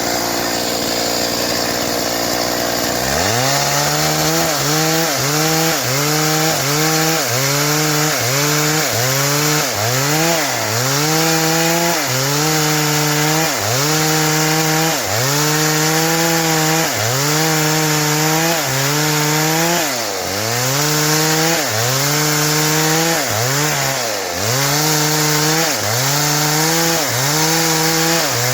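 Stihl MS 382 two-stroke chainsaw cutting wood under load. About three seconds in, the engine settles into a rhythm, its pitch dipping and recovering about once a second as the chain bites, with two deeper dips later on.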